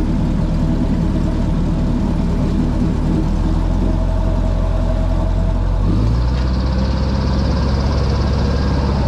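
Airboat engine and propeller running steadily at a low, even pitch, then stepping up in pitch about six seconds in as the throttle opens.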